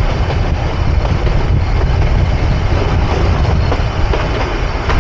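Nilgiri Mountain Railway toy train running along the track: a steady, loud rumble of the moving carriage with occasional faint clicks from the wheels.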